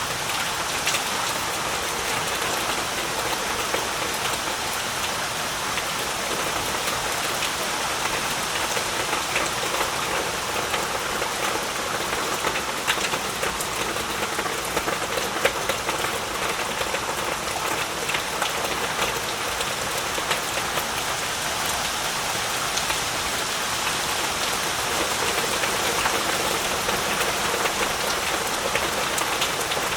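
Heavy rain falling steadily, an even hiss of rain with many individual drops pattering on surfaces.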